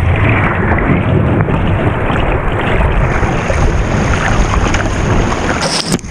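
Rushing river water over a small rapid, a steady loud wash, with wind noise on the microphone.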